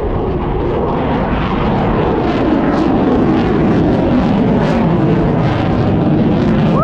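Airplane flying low past at an airshow: loud, dense engine noise that grows louder over the first few seconds, then holds steady.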